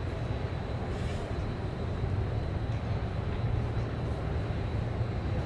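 Steady low rumble of a large train station hall's ambience, with a faint, steady high-pitched tone over it.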